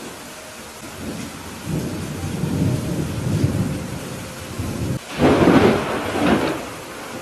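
Thunderstorm with steady rain falling: thunder rumbles low from about a second and a half in, then a sudden, louder clap of thunder breaks about five seconds in and fades near the end.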